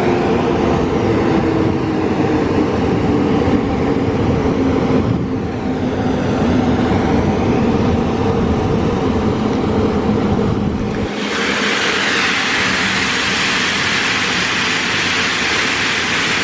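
Car wash dryer blowers running while the wash machine moves over the car, a loud steady rumble with a slowly falling tone. About 11 seconds in the rumble drops away suddenly and a strong hiss of air takes over.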